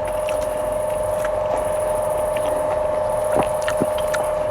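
A steady, constant hum with insects trilling in long stretches behind it, broken by short gaps, and a few faint clicks.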